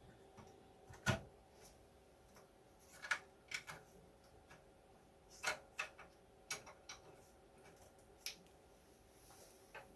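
A dozen or so light clicks and taps, irregularly spaced, from tools and parts being handled on a workbench, over a faint steady electrical hum.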